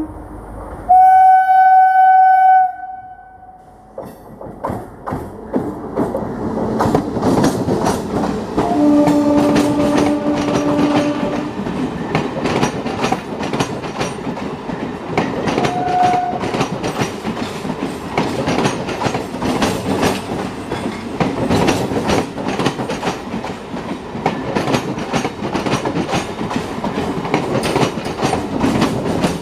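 Old EMU electric suburban local train (ICF/BEML coaches) sounds a long, loud horn blast about a second in. It then passes close by with a rising rumble and a rapid clickety-clack of wheels over rail joints. A lower-pitched horn sounds for a few seconds around ten seconds in, and a brief higher toot comes near the middle.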